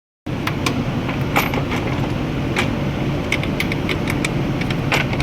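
Scattered sharp metallic clicks and clinks of hand tools and bolts being worked, over a steady low hum.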